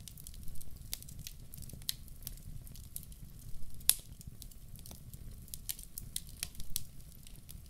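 Wood fire crackling in a fireplace: irregular sharp pops and snaps over a low steady rumble of flames, with one louder pop about four seconds in.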